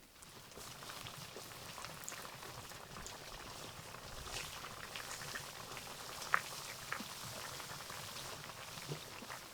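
Hot oil sizzling steadily as food deep-fries, with scattered pops and crackles and one sharper pop a little past the middle. It starts and stops abruptly.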